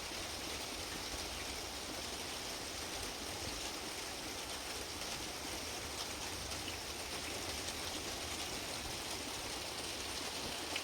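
Steady rain falling during a thunderstorm, an even hiss with no thunderclaps.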